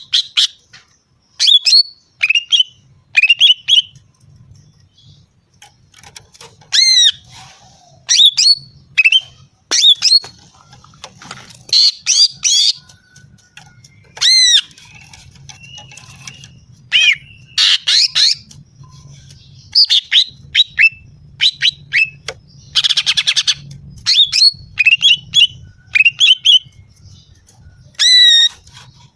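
Female green leafbird (cucak ijo) calling: short, sharp notes with quick downward-sweeping whistles, delivered in irregular bursts, with a buzzy rattling call about 23 seconds in. This is the female's call that keepers play to excite male cucak ijo.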